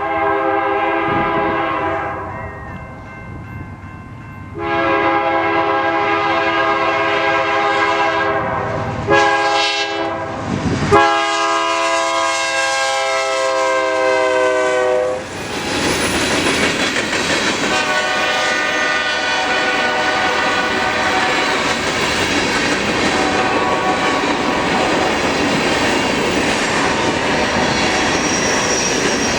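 Diesel freight locomotive's air horn sounding the grade-crossing signal, long, long, short, long, the pitch sagging slightly in the last blast as it passes. Then the ballast train rolls by, its wheels clattering steadily over the rail joints.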